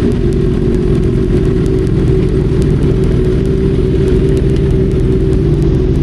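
Motorcycle engine running steadily at an even speed while being ridden.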